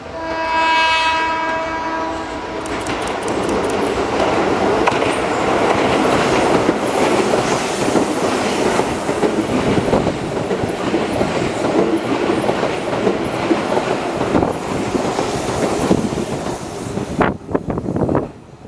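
Keihan 6000-series train sounding its horn for about two seconds, then passing through the station at speed with wheels clattering over the rail joints. The noise drops off sharply as the last car clears.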